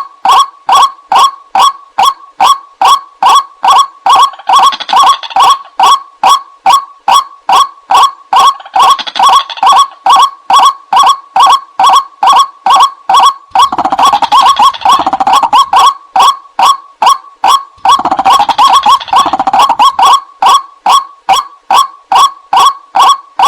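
White-breasted waterhen (ruak-ruak) calling: a steady string of loud, nasal notes at about two to three a second. In four stretches these thicken into a denser, overlapping chorus of calls.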